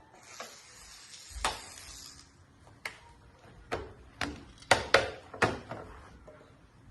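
A hiss lasting about two seconds, then a run of about seven sharp knocks or clacks at uneven spacing, the loudest a few seconds in.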